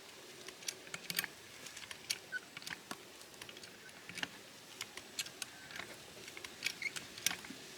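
A 2.5-ton car jack being pumped under a fence post: light, irregular clicks and taps of the handle and lifting mechanism, several a second.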